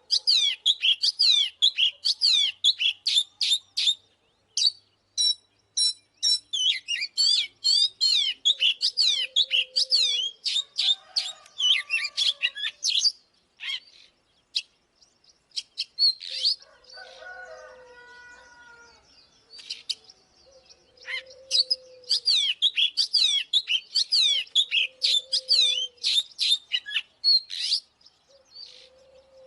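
Oriental magpie-robin singing a fast, varied run of sharp chirps and trills in long bursts with short pauses, as a lure call. A few lower calls from another bird sound between the phrases.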